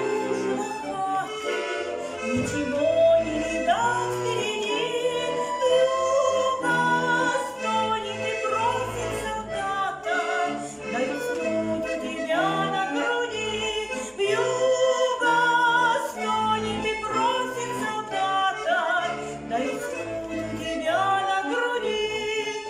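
Accordion playing the instrumental introduction to a song: a wavering melody over steady bass notes and chords.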